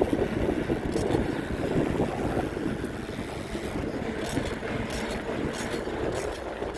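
Steady rumbling noise of a moving bicycle ride: wind on the microphone mixed with road noise, easing a little about halfway through, with a few faint ticks near the end.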